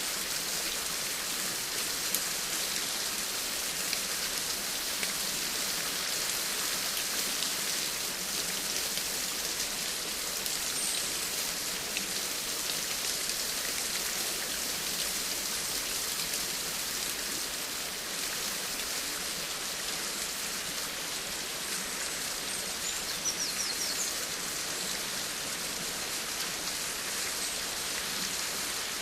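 Steady rain falling, an even hiss of many drops with fine patters, unchanging in strength.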